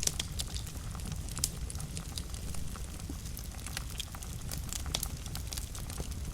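Wood fire burning in a fireplace, crackling with many sharp irregular pops over a steady low rumble.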